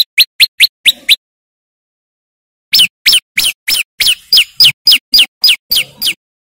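Prenjak lumut (a prinia) singing: fast runs of sharp, downward-slurred notes, about four a second. A short run opens, then a pause of about a second and a half, then a longer run of a dozen or so notes.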